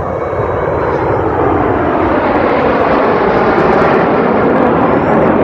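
Jet aircraft flying past: a loud, steady jet roar that grows gradually louder.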